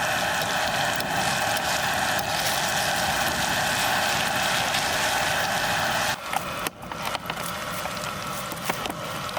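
Food frying in rendered fat in a hot pan: a steady sizzle with crackles. The sizzle falls off abruptly about six seconds in, leaving scattered pops and clicks.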